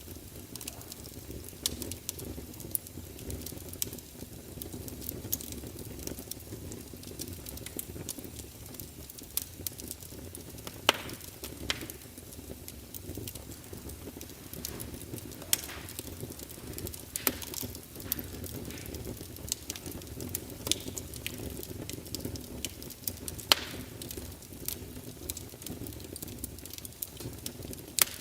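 Fire crackling: a steady low rustle of burning with irregular sharp pops and snaps, a few of them louder.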